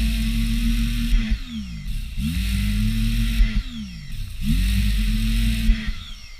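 Electric power tool motor run in short bursts: it spins up to a steady whine with a hiss over it, holds for one to two seconds, then winds down. This happens three times, with the first run already going at the start.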